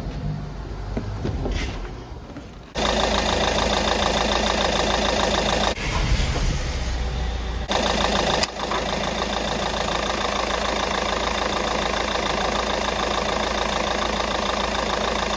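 Citroen C4 Picasso engine running at a steady idle, coming in suddenly about three seconds in, with brief changes in level a few seconds later.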